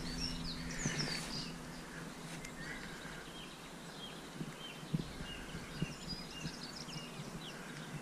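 Small birds chirping and singing in short, repeated notes over a faint outdoor hiss. A faint low hum fades out after about two seconds, and there are a few soft knocks near the middle.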